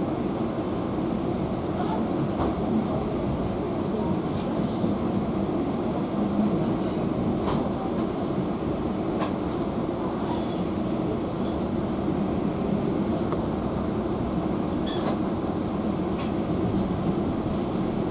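Passenger train running, heard from inside the carriage: a steady rumble of wheels on rails, with a few short sharp clicks.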